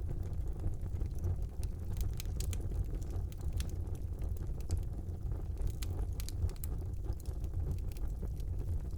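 Wood fire burning in a fireplace: a steady low rumble of flames with frequent, irregular crackles and sharp pops.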